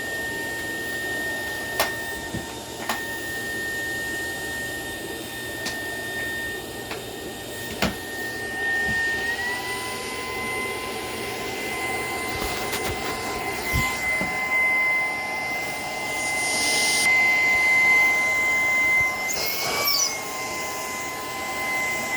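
Shark PowerDetect cordless stick vacuum running with a steady high motor whine over the rush of airflow. Its pitch steps up about nine seconds in. A few sharp plastic clicks come in the first eight seconds as the floor head is detached from the wand.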